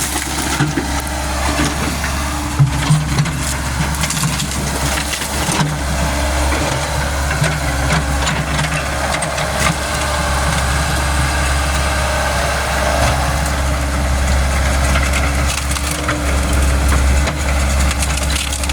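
A Caterpillar 120 excavator's diesel engine running steadily while wood crunches and crackles with scattered sharp snaps, as the machine breaks into a tree trunk.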